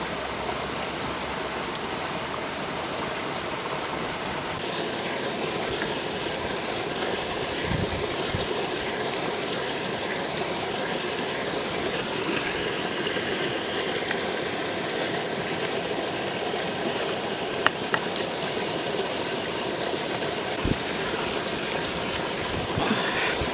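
Steady rush of a stream's running water, with a few light clicks scattered through it.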